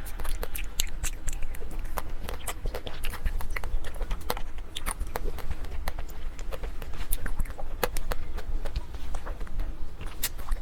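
Close-up eating of a chocolate-coated ice cream bar: many quick, irregular crackles and clicks as the chocolate shell is bitten and chewed, with wet mouth sounds, over a steady low hum.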